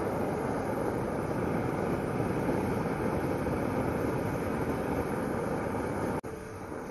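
Steady loud rushing noise that cuts off abruptly about six seconds in, followed by faint music.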